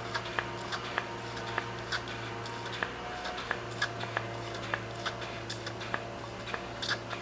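Primer bulb on a Husqvarna 125B leaf blower's carburettor being pressed over and over, a string of light clicks about two a second, pumping fresh fuel through. A steady low hum runs underneath.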